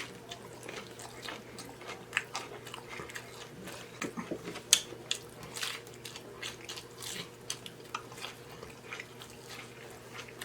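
Close-up chewing and biting of a loaded taco: irregular crunches and wet mouth smacks.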